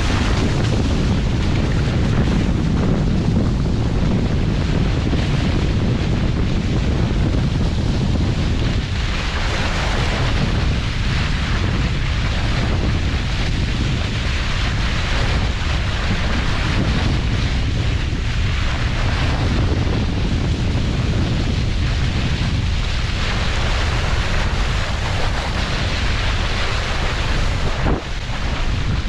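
Wind buffeting the microphone: a loud, steady low rumble that goes on without a break.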